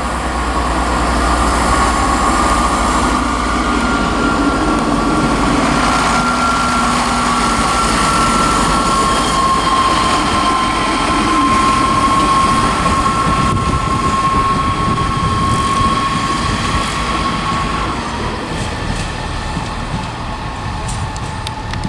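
Class 158 diesel multiple unit pulling out of the station, its diesel engine running under power with a steady high whine. It is not struggling as it gets away, and the whine drops out and the sound fades near the end.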